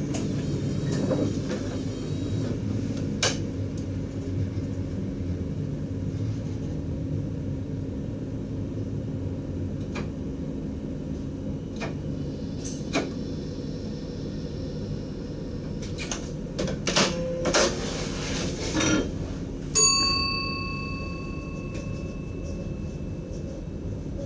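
Driver's cab of a Dutch DDZ double-deck electric train: a steady low electrical hum with scattered clicks and knocks. About twenty seconds in, a single bell-like chime rings out and fades over a few seconds.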